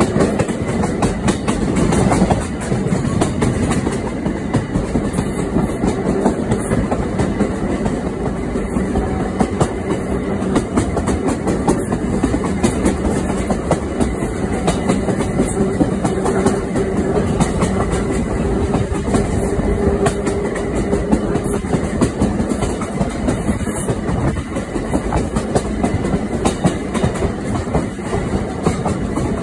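Train running along the track, heard from aboard: a steady rumble with wheels clicking over the rail joints.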